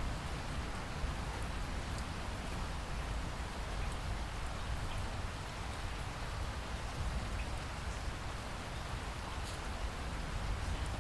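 Steady rain falling, an even hiss with a deep low rumble beneath and faint scattered drop ticks.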